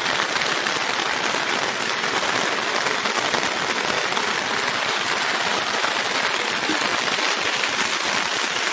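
Steady rain falling: a dense, even hiss of drops with no break in it.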